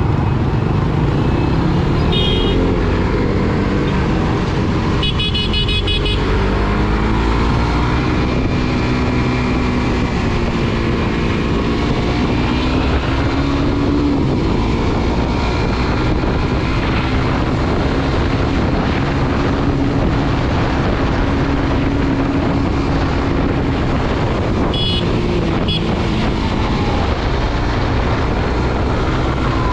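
Motorcycle ride in city traffic: a single-cylinder Suzuki GSX-R150 engine running under a steady rush of road and wind noise, its pitch rising and falling as it speeds up and shifts. Vehicle horns toot briefly about two seconds in, for about a second around five seconds in, and twice near the end.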